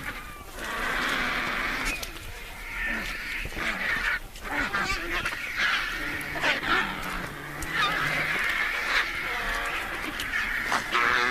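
A crowd of vultures squabbling over a carcass: a continuous din of harsh hissing, squealing and cackling calls from many birds at once.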